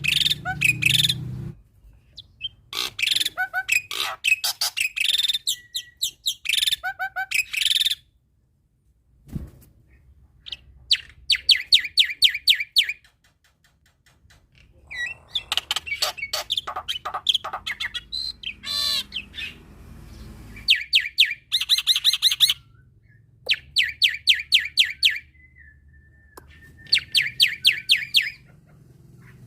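Male black-winged starling (jalak putih) singing vigorously: loud phrases of rapid runs of repeated sharp notes, each a second or two long, broken by short pauses.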